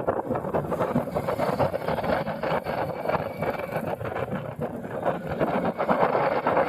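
Motorcycle engine running steadily, with a fast even pulsing.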